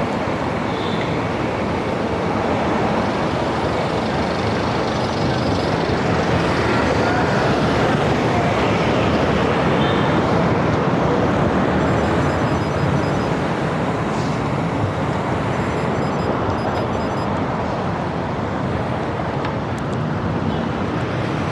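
Steady road traffic on a busy multi-lane highway, a dense wash of cars, buses and trucks passing close by.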